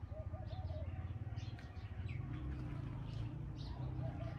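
Birds chirping with short, high calls scattered throughout, and a wavering call about half a second in and again near the end, over a steady low hum.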